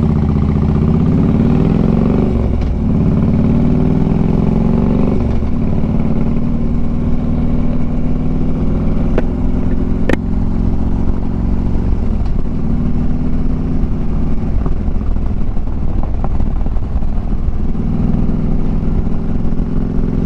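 Harley-Davidson Street Glide's V-twin engine pulling away and accelerating through the gears for the first five seconds or so, then running at a steady cruising speed. A few sharp clicks come in the middle.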